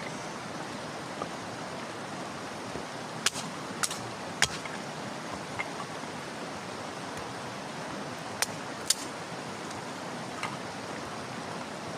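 Wood fire burning with a steady rushing hiss, broken by a few sharp cracks and pops: three about half a second apart a little after three seconds in, and two more close together past eight seconds.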